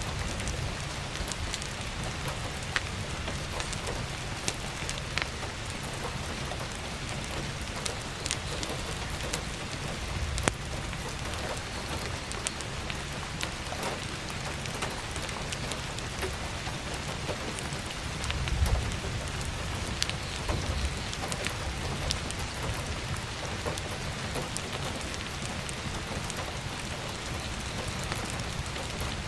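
Heavy rain falling steadily, with scattered sharp pops and crackles of burning firewood. A louder low rumble comes about two-thirds of the way through.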